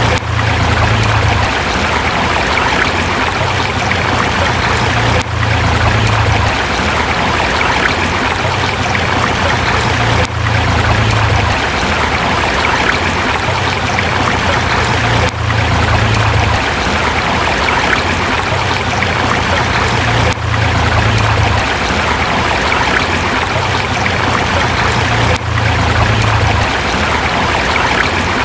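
River water rushing over rocks: a steady flow with a brief dip in level about every five seconds.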